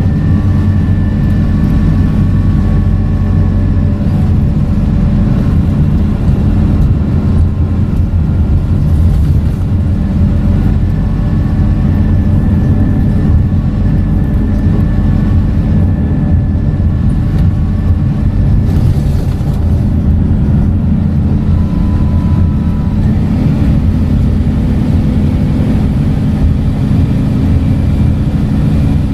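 Scania K230UB bus's diesel engine and ZF automatic gearbox running steadily under way: a loud, even low drone with faint thin whining tones above it.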